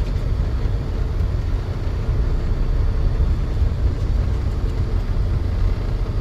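Steady low rumble of a truck running, even throughout with no sudden sounds.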